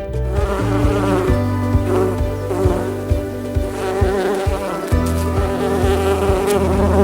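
An insect buzzing with a wavering drone, over steady low background music.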